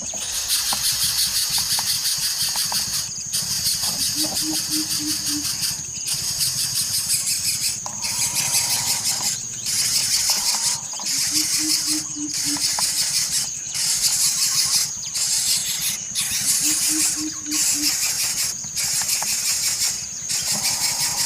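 A coucal's deep hooting call: runs of four or five even, low notes repeated about every six seconds. Under it runs a steady high-pitched buzzing that drops out briefly every second or two.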